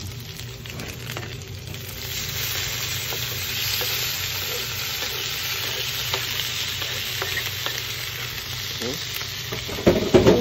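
Chopped spice paste of ginger, galangal, shallot, garlic and chilli sautéing in hot oil in a wok, sizzling steadily. The sizzle grows louder about two seconds in, as chopped tomatoes are scraped in from a cutting board. A few loud knocks come near the end.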